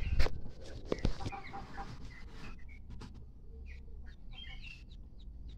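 Free-range village chickens (ayam kampung) clucking with many short calls, and a few sharp knocks in the first second or so.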